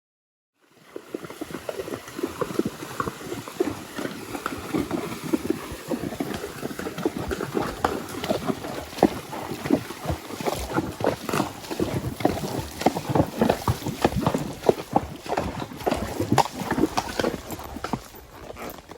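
Hoofbeats of a spotted saddle horse: a quick, uneven run of many hoof strikes over outdoor noise, starting about half a second in.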